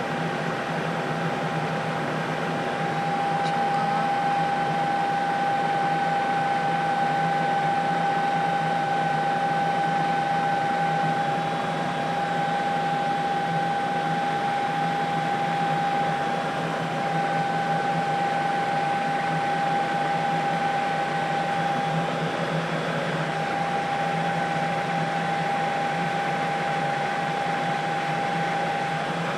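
Steady news-helicopter engine and rotor noise heard from inside the cabin: an even drone with a constant high whine.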